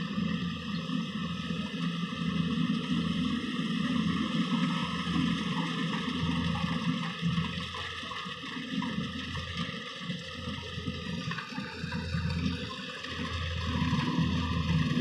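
Rice combine harvester running steadily while harvesting, a continuous mechanical rushing with a steady hum.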